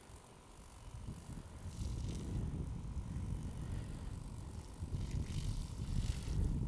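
Wind gusting across the microphone, a low rumble that rises about a second in and swells and eases in gusts.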